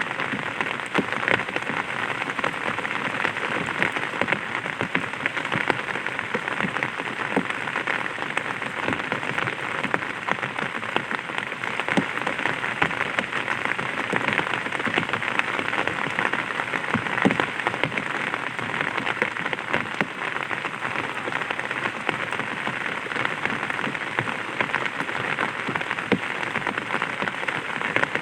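Light rain falling on an umbrella: a steady hiss of many small drop impacts.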